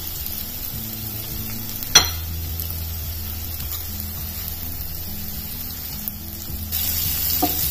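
Chopped onions frying in hot oil in a nonstick pan, a steady sizzle, with one sharp knock about two seconds in. Near the end the sizzle gets louder and brighter as crushed garlic goes into the hot oil.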